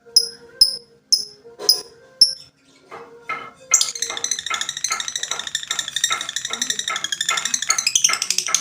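Lovebird song: a few sharp, high chirps about two a second, then, from about halfway, a long, rapid, chattering trill. This is the long trill ('ngekek') played as a lure to set silent lovebirds singing.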